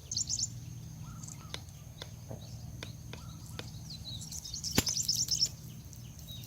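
Small birds chirping in quick high trills, at the start and again in the second half, over a steady low hum. Several sharp clicks sound through it, one much louder near the end.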